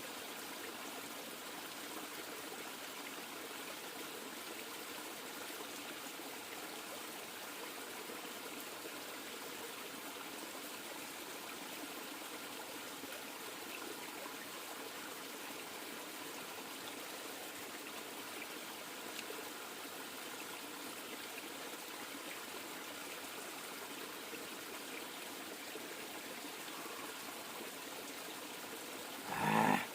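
River water flowing, a steady even rush. Just before the end there is one brief, louder sound lasting about half a second.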